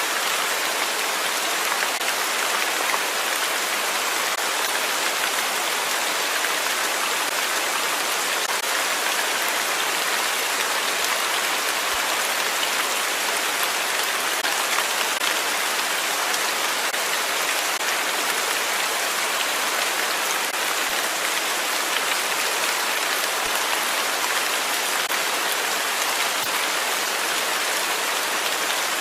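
Steady rain falling, an even hiss of drops on a surface with faint individual drop ticks, unchanging throughout.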